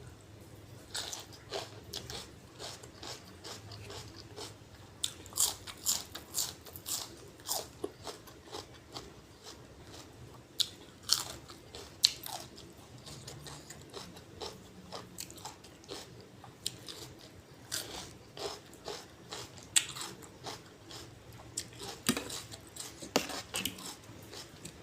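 A person biting and chewing crisp food close to the microphone, with many sharp, irregular crunches: eating spicy lotus-stem salad (tam lai bua) with fresh raw vegetables.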